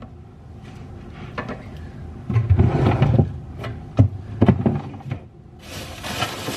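Household handling sounds: a series of wooden knocks and thuds as things are moved and set down, with rubbing like a drawer or cupboard sliding, and a burst of rustling near the end.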